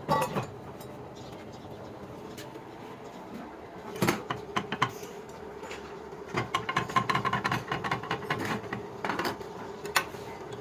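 Metal clinks and knocks from tools working on metal parts: sharp single knocks at the start, about four seconds in and shortly after, then a quick run of clinks for about three seconds and one last knock near the end, over a faint steady hum.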